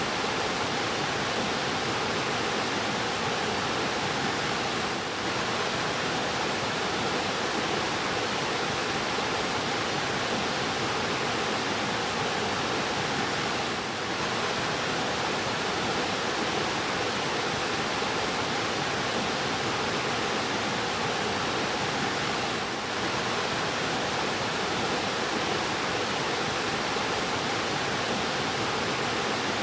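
Fast-flowing river rushing steadily, a dense, even wash of water noise.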